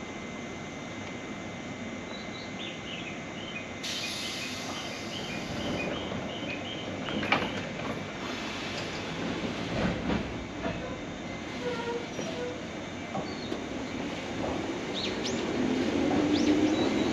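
Agatsuma Line electric train at the station platform, a rumble with scattered clicks and knocks from the wheels and rails, growing louder toward the end as a rising motor tone begins.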